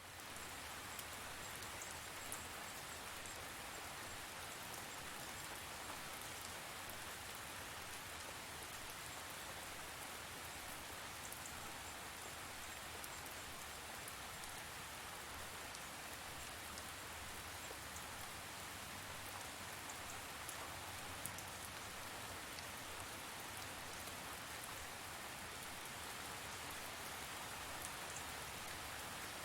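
Steady rain falling, with scattered sharper drop hits over an even hiss.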